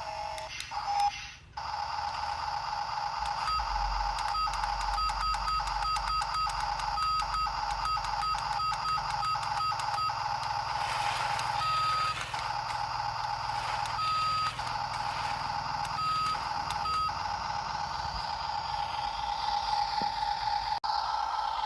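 Toy dump truck running with a steady high electronic whine and repeated short reversing-style beeps, quick and frequent at first and then spaced out after about ten seconds.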